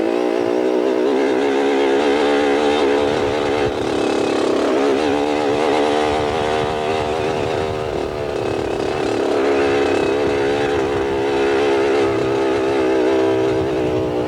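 Dirt bike engine running, its pitch rising and falling again and again as the throttle is worked.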